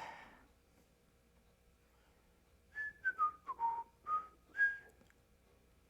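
A person whistling a short tune of about six notes, about three seconds in, falling in pitch and then rising again.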